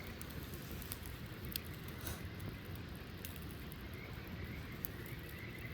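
Wood campfire crackling steadily, with a few sharp pops.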